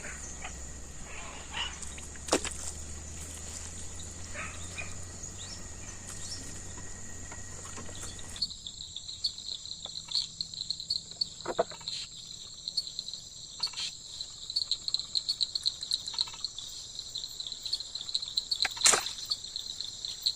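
Chorus of calling insects and frogs: a steady high-pitched drone throughout, joined about eight seconds in by a fast pulsing trill, with a few sharp clicks.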